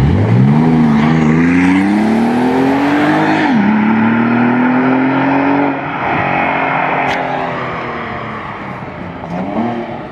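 Car engine accelerating hard, its pitch climbing steadily, then dropping suddenly at an upshift about three and a half seconds in and climbing again in the next gear before fading as the car drives off. A brief rev rises and falls near the end.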